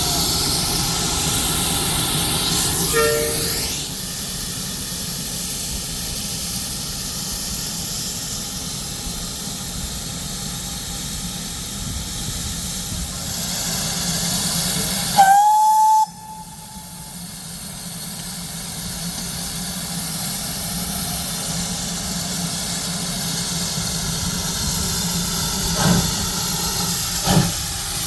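Steam locomotive 9466 standing with a steady loud hiss of escaping steam. There is a short whistle note about three seconds in, and a louder whistle blast about halfway through that slides up into a steady note and cuts off. Near the end come the first few sharp exhaust beats as it starts away.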